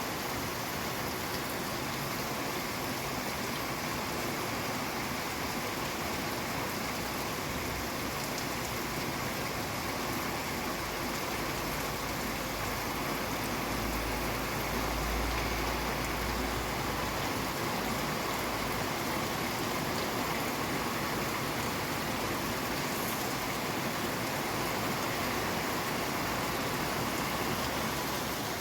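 Steady heavy rain, an even hiss of many drops with no single impacts standing out. A low rumble swells under it about halfway through.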